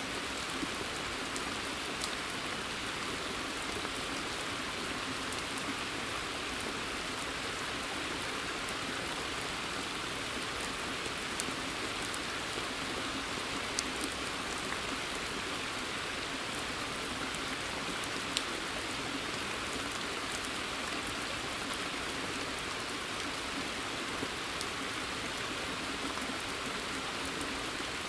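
Steady rain falling in woodland: an even hiss of many drops, with a few louder single drops ticking close by now and then.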